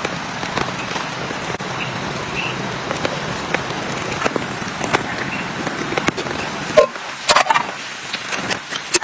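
Steady rain with scattered drips and taps. About seven seconds in, the rain noise drops away and a short run of sharp clicks and knocks follows.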